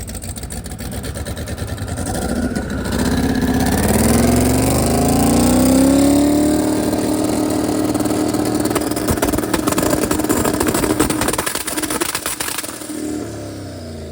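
Twin-turbo LS V8 being revved: the revs climb over about three seconds, hold steady at the two-step rev limiter with rapid crackling, then drop off near the end.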